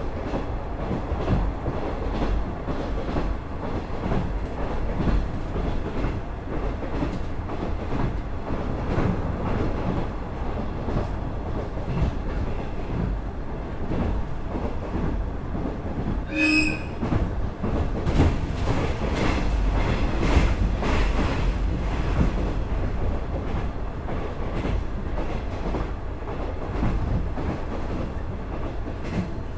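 Onboard running noise of a KiHa 110-series diesel railcar with its Cummins DMF14HZA engine: a steady low rumble with rhythmic clicks of the wheels over rail joints, more frequent in the second half. A short high tone sounds once just past the middle.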